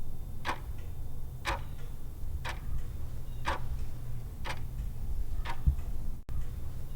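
Clock ticking about once a second, a quiz countdown-timer sound effect, over a low steady hum.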